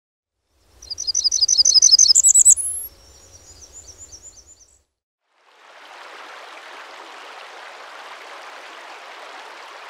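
A songbird sings a loud, fast trill of repeated notes for about two seconds, then softer chirps. After a short pause, a steady rushing outdoor noise like running water starts about halfway through.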